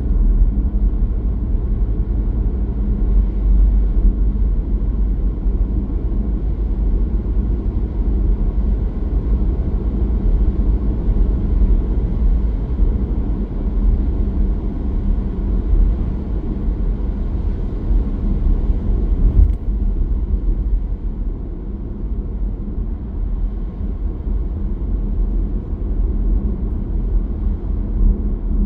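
A car driving along a road: a steady low rumble of engine and road noise, with one short click about two-thirds of the way through.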